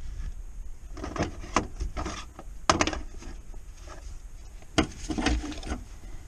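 Several knocks and clatters of tools or parts being handled during work on a car, in three groups, the sharpest about two and a half seconds in.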